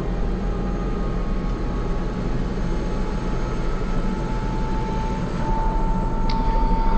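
H125 (AS350 B3) helicopter's turbine engine and rotor running, heard from inside the cockpit as a steady low hum. A thin high whine sits above it and grows louder about five seconds in.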